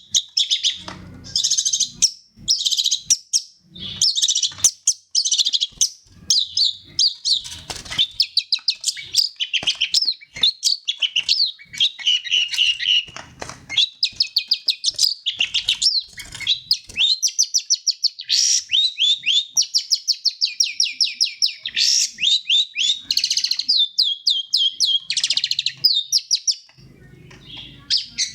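Long-tailed shrike (pentet) singing a fast, varied, many-voiced song: rapid chirps, sweeping notes and rattling trills that change phrase every second or two with only brief pauses.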